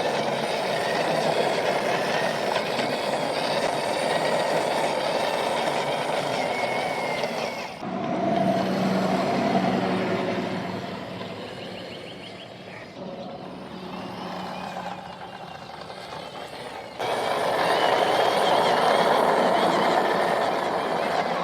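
Steady vehicle-like running noise while a metal toy city bus is driven by hand. The sound changes abruptly twice, about a third of the way in and again near the end.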